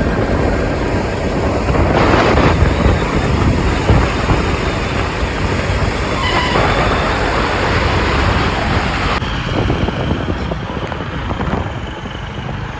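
Wind buffeting the microphone: a loud, steady low rumble with no clear tones.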